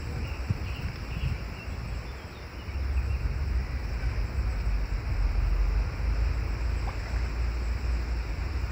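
Wind buffeting the microphone with a low, fluttering rumble that grows stronger a few seconds in, over a steady outdoor hiss. A few faint bird chirps come in the first second or two.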